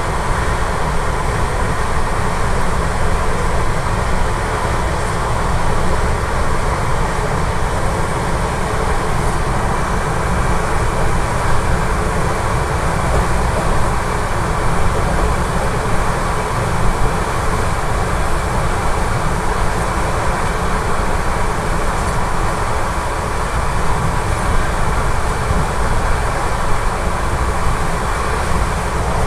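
Steady rush of wind and wheel-on-rail running noise from an express passenger train at speed, heard from an open window beside the coach, with wind buffeting the microphone.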